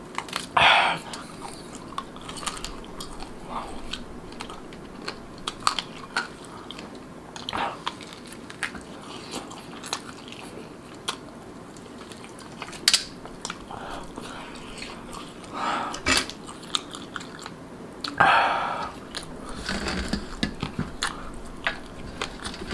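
Close-up biting and chewing of marinated rabbit meat eaten by hand, with many sharp mouth clicks and a few louder bites or smacks.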